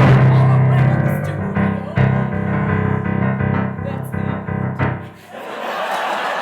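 Live piano accompaniment playing the closing chords of a song, stopping about five seconds in, followed by audience applause.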